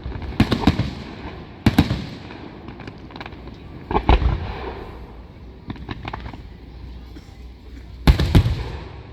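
Aerial firework shells bursting as a series of booms, each with a short echoing tail: a quick cluster about half a second in, one near two seconds, a double near four seconds and another double near eight seconds, with lighter crackling pops in between.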